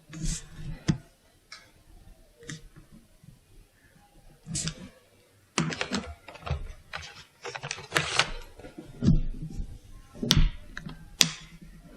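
Craft materials handled on a tabletop: irregular sharp clicks, taps and rustling, with a busy run of them in the middle and two sharp clicks near the end.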